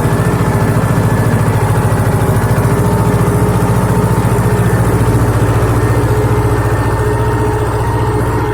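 Mahindra Yuvraj 255 DI tractor's diesel engine running steadily with a rapid, even beat, easing slightly near the end.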